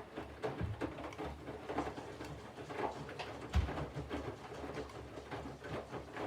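Candy front-loading washing machine in its main wash: the drum turns slowly with wet laundry, giving an irregular patter of sloshing water and tumbling clothes with soft thuds, and one heavier thud about halfway through.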